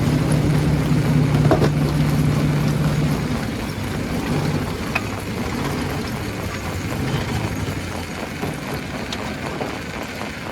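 A heavy machine's engine running steadily, its hum dropping away after about three seconds, over a constant rattling noise with scattered sharp clicks.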